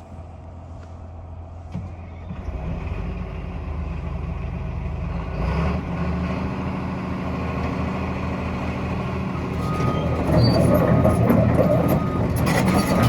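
Cat 336EL hydraulic excavator's diesel engine running, steadily growing louder and getting fuller and louder from about ten seconds in. A high, repeated beep starts at about the same time.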